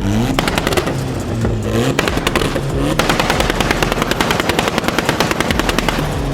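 A car engine being revved up and down, its exhaust crackling with a rapid string of pops like machine-gun fire, thickest in the middle seconds.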